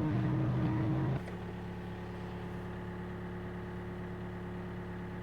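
Excavator diesel engine running. About a second in, its level drops suddenly, and it then runs steady and lower.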